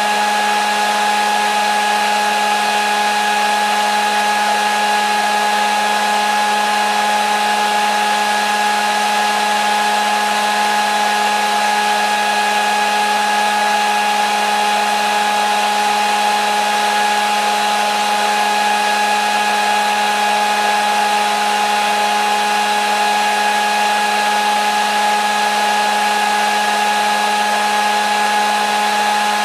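Electric hair dryer running steadily, its motor humming with a fixed whine over a constant rush of air.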